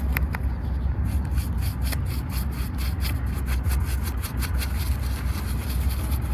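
A brush scrubbing a miniature toy car in quick, repeated strokes, several a second, over a steady low hum.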